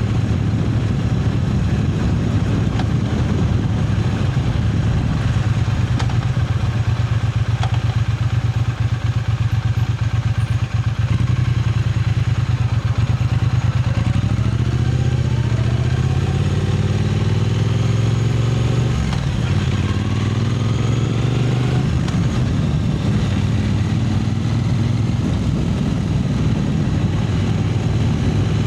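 Triumph Speed Twin 900's parallel-twin engine running on the road, with a steady hiss of wind and road noise. From about halfway through, the engine note climbs in pitch several times in a row as the bike accelerates, then settles back to a steady run.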